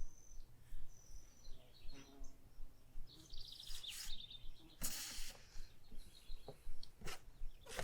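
Small birds calling: short high whistled notes and a quick trill of rapid repeated notes about three seconds in, with a sharp noisy burst about five seconds in.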